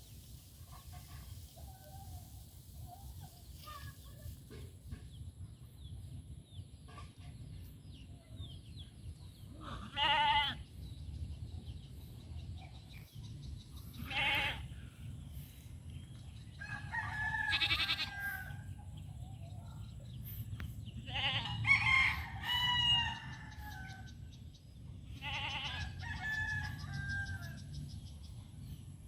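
Roosters crowing several times in the second half, each crow lasting a second or two, with a couple of shorter animal calls before them, over a steady low rumble.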